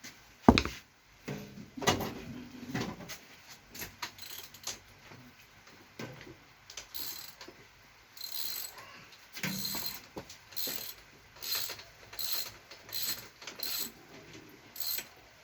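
Mechanical clicking and knocking: a sharp knock about half a second in, scattered clicks, then a regular run of short clicking strokes, about one every three-quarters of a second, in the second half.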